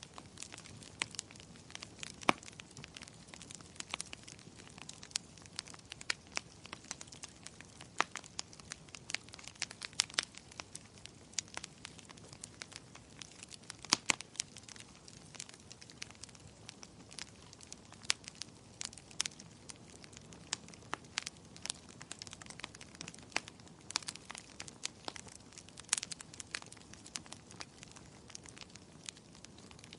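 Fire in a fireplace crackling: irregular sharp pops and snaps over a faint steady hiss.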